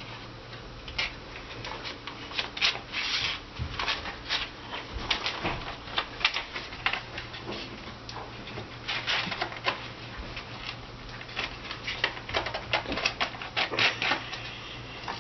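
Hands working with paper and a pencil at close range: irregular short scratches, rustles and light taps.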